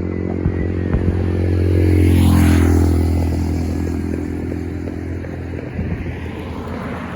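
A motor vehicle drives past close by. Its engine note swells to a peak a couple of seconds in, then drops in pitch and fades as it moves away.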